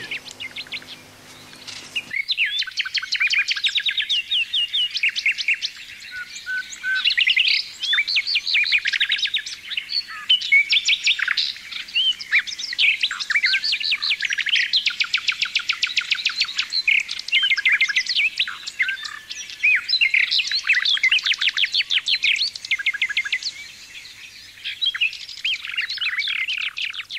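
Birdsong: a dense, unbroken run of fast repeated chirps and trills, starting about two seconds in.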